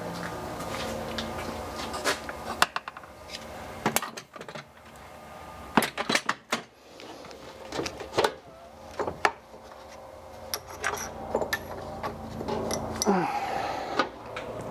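Scattered clicks and knocks of tools and small metal parts being handled on a workbench, irregular and sharp, over a steady low hum.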